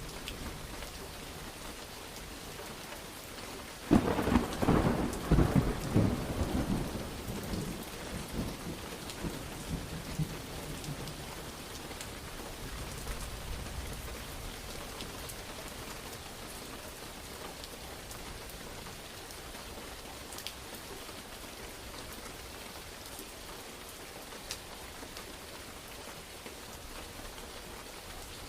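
Steady rain falling, with a sudden close thunderclap about four seconds in that rumbles and dies away over several seconds.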